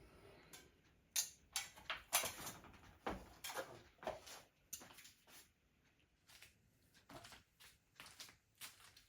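A run of light clicks and small clattering knocks from hands working with small metal hardware. They come irregularly, thickest in the first half, with a short lull about six seconds in.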